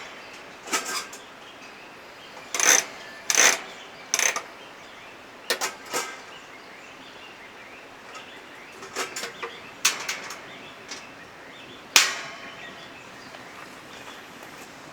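A series of short, irregular clicks and knocks, the sharpest one about twelve seconds in, over a steady faint rushing background.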